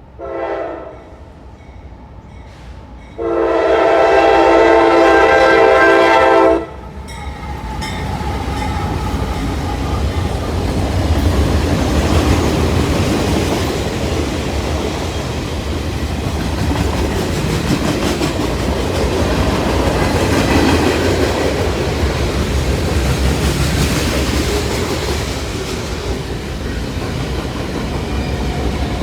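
Diesel freight locomotive horn sounding a short blast, then a long blast a few seconds later. The train then passes close by, with a steady rumble of the locomotive and the clatter of freight cars rolling over the rails.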